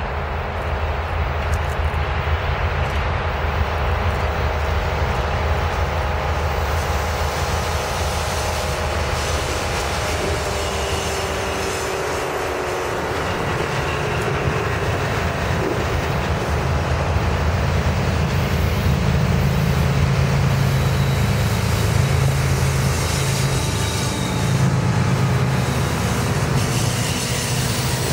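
Norfolk Southern trains passing: diesel locomotive engines running with a steady low drone, over continuous wheel and rail noise and faint thin squeals from the wheels. The engine drone steps up in pitch about halfway through.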